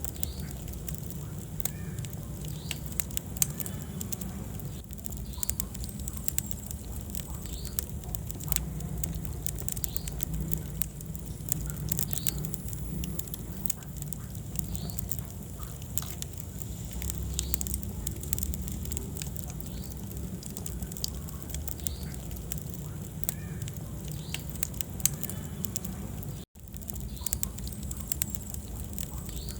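Wood fire burning in a fireplace: a steady low rumble of flames with frequent sharp crackles and pops, cutting out for an instant near the end.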